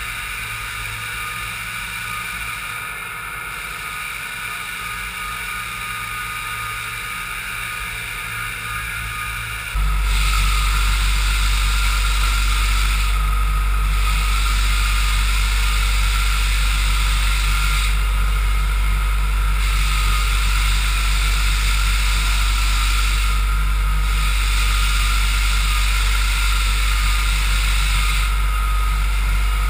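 Floor sander with its built-in vacuum running steadily. It gets suddenly louder about ten seconds in, with a deep hum added.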